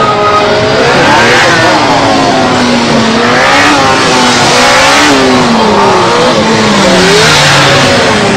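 Superbike engine revving, its pitch climbing and dropping several times as it accelerates and changes gear, over a steady rushing noise.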